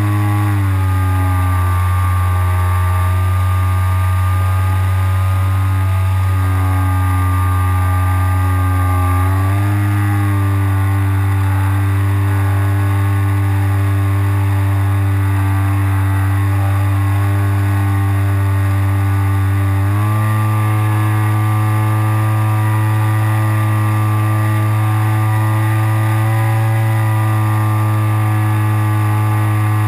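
RC glider's propeller motor running steadily with a droning hum. Its pitch drops about half a second in, then steps up twice, about ten and twenty seconds in, as the throttle is changed.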